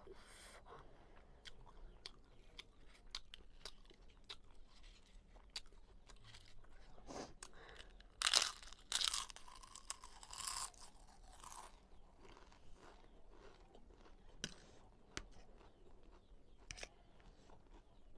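Close-miked eating: a crisp fried papad bitten and crunched, with small wet chewing clicks throughout and a run of loud crunches in the middle.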